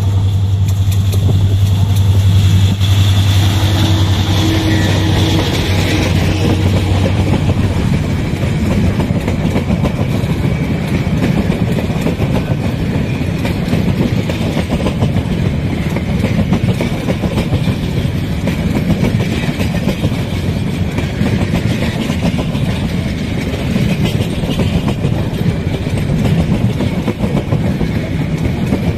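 A passenger train running at speed on jointed track, its wheels making a steady clickety-clack and rattle over the rail joints. A low diesel engine hum fades out over the first few seconds.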